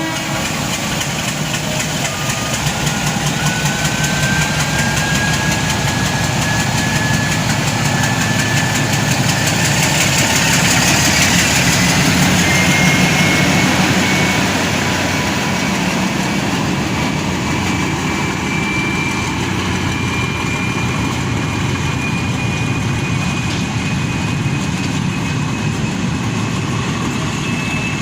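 Class M4 diesel locomotive's engine running, with a thin whine that climbs slowly in pitch. The sound swells a little around the middle and then eases back.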